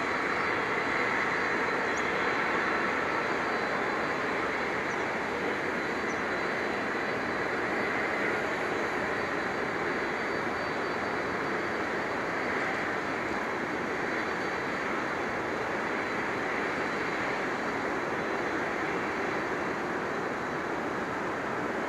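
Jet airliner engines heard from the airport perimeter: a steady rush with no change in level, with a faint high whine above it.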